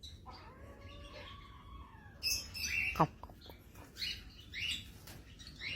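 Pet birds chirping: a run of short, high chirps starting about two seconds in, while they are being hand-fed.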